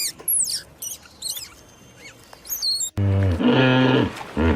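High-pitched squeaky chirps in quick gliding notes, then, after an abrupt cut about three seconds in, a cow mooing in a loud low drawn-out call that starts again just before the end.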